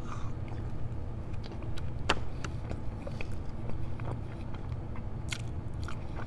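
Close-miked chewing of a mouthful of Texas toast dipped in Raising Cane's sauce, with scattered wet mouth clicks and smacks over a steady low hum.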